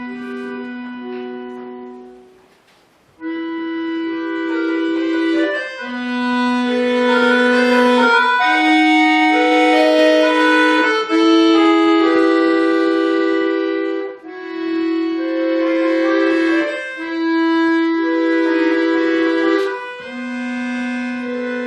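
Bayan (Russian button accordion) playing a slow piece in long held notes and chords. There is a brief pause about two to three seconds in.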